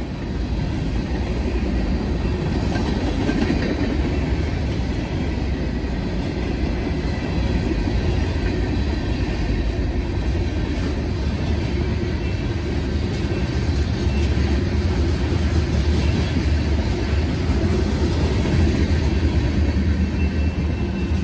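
CSX freight train rolling past close by, with a steady heavy rumble of wheels on rail and faint scattered clicks.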